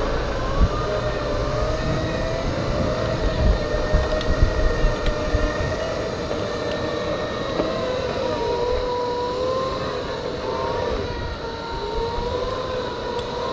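Segway electric drive motors whining, the pitch rising and falling as the riders change speed, with wind rumble on the microphone.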